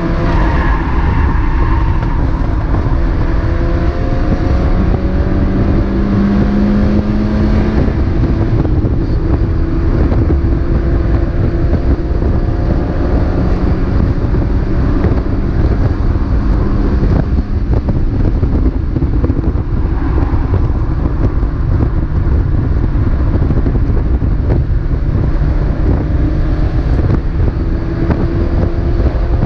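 Mazda MX-5 race car's engine running under load at speed, its pitch rising through the gears, over a heavy steady rumble of road and wind.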